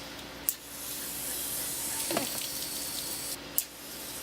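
Hose spraying water in a steady hiss. It starts just after a click about half a second in, breaks off briefly near the end, and starts again after a second click.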